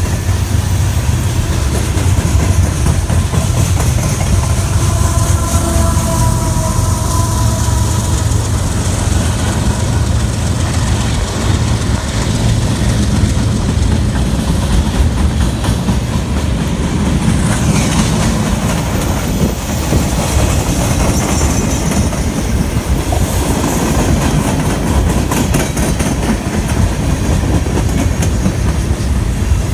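Freight train cars rolling past at speed, a steady heavy rumble with wheels clattering over the rail joints.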